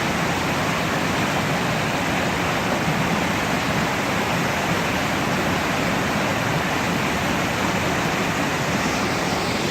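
Steady rush of a waterfall: a constant, even wash of falling water.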